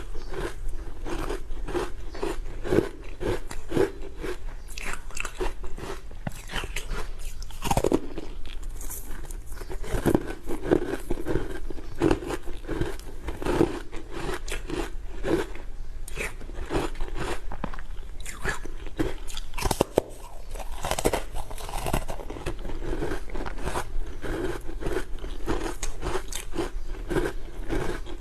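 Hard frozen matcha ice being bitten and chewed close to the microphone: a continuous run of sharp crunches and cracks, with a brief pause about two-thirds of the way in.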